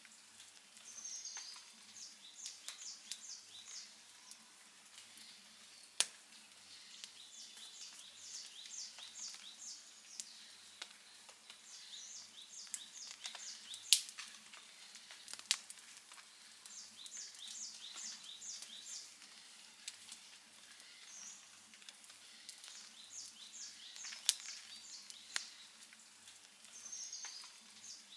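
Campfire crackling with scattered sharp pops, the loudest about halfway through. A bird repeats a short phrase of rapid high chirps every few seconds.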